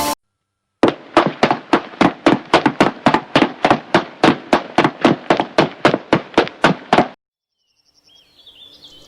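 A rapid series of some two dozen sharp, evenly spaced knocks, about three and a half a second, that stop abruptly after about six seconds. Faint birdsong follows near the end.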